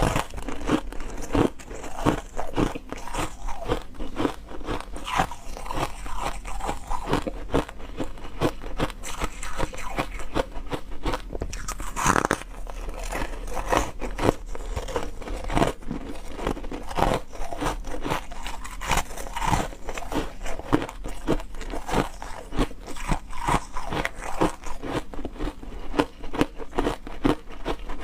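Ice being bitten and chewed close to the microphone: a continuous run of sharp, crisp crunches, several a second.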